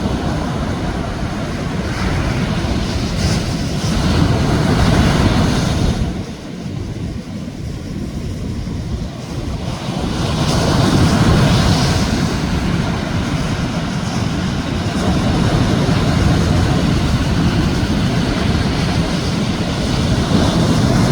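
Sea waves breaking on a beach: a loud, continuous rush of surf that swells about four seconds in and again about ten seconds in, easing in between.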